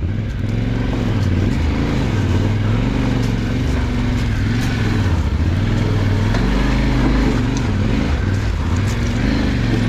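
Yamaha Ténéré 700's parallel-twin engine pulling at low revs off-road, the revs rising and falling unevenly with the throttle.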